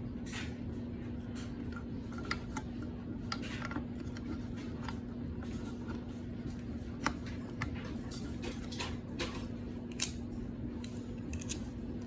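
Scattered light clicks and taps of small metal and plastic parts being handled, among them a distributor and its ignition module, with a sharper click about seven seconds in and the loudest one about ten seconds in. A steady low hum runs underneath.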